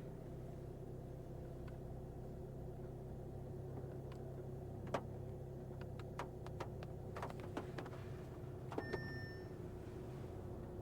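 A Volkswagen Golf's 150 hp TDI diesel engine running steadily, heard as a low even hum from inside the cabin. Scattered sharp clicks start about halfway through, and a short electronic beep sounds near the end.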